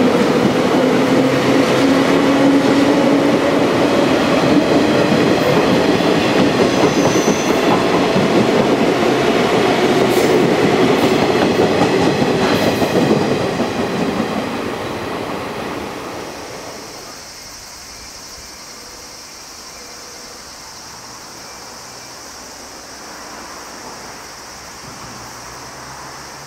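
Limited-express electric train accelerating along a station platform: its motor whine rises slowly in pitch over wheels clicking on the rail joints. About 13 seconds in the sound begins to fade as the train draws away, leaving a quieter steady background with a high hum.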